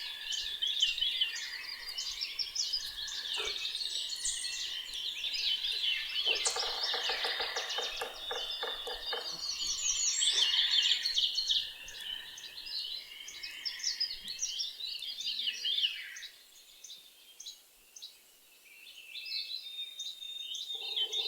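A chorus of several songbirds singing at once, chirps and trills overlapping, with a lower rapid pulsed call for a few seconds about six seconds in. The birdsong thins out near the end, leaving only a few scattered chirps.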